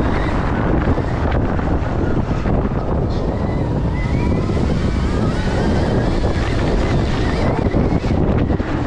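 Heavy wind rush over the microphone as a Stark Varg electric dirt bike is ridden at speed, with the faint whine of its electric drive rising and falling about four to six seconds in.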